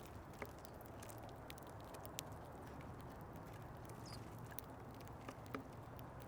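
Scattered sharp taps and clicks of small birds pecking seed and hopping about a bird feeder, over a steady low background hum. There is a brief faint high note about four seconds in.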